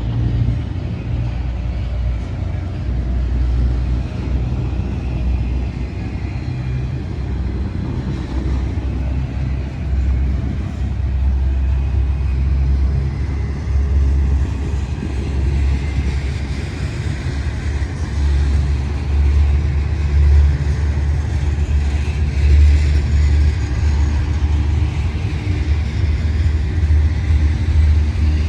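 A train passing, giving a steady low rumble that grows a little louder in the second half.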